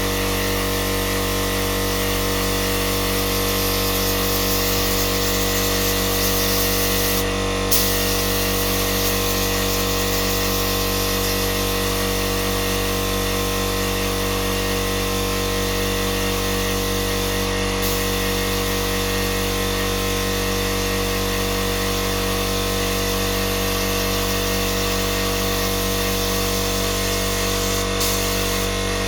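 Heat gun running steadily, an unchanging motor hum under a hiss of blown air. The hiss dips briefly three times.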